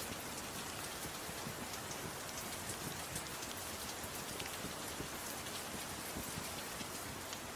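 Gentle rain falling steadily, an even hiss, with scattered small sharp crackles of a wood fire mixed in.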